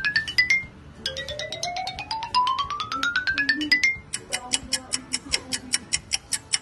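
Comedy sound effects laid over the video: a quick run of xylophone-like notes climbing in pitch, then a second, longer climbing run, then rapid clock-like ticking at about five ticks a second from about four seconds in.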